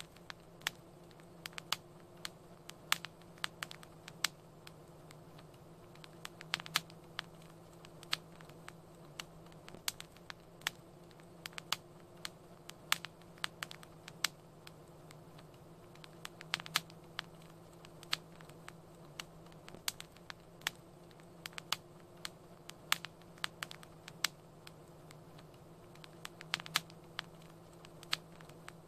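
Wood fire crackling, with irregular sharp pops and snaps coming several a second at times, over a faint steady low hum.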